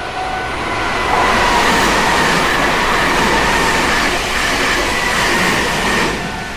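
A train passing close by: the loud rush and rumble of its wheels on the rails, with faint steady whining tones through it. It builds over the first second and falls away about six seconds in as the train goes by.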